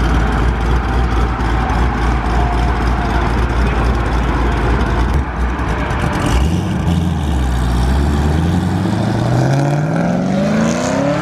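Car engine rumbling at low revs, then from about six seconds in its revs climb steadily as the car accelerates.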